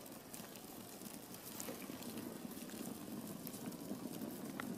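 Wood fire burning in a fire pit: a steady, faint flame noise with frequent small crackles.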